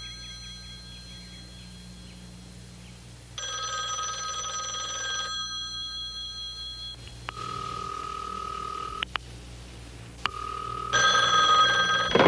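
Cartoon telephone ringing: two long rings, about three seconds in and near the end, with a plainer steady tone sounding in between.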